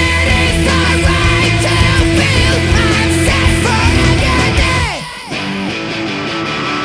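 Post-hardcore rock music: distorted electric guitars, bass and drums playing together. About five seconds in, the bass and drums drop out under a falling pitch glide, and a lighter guitar part carries on.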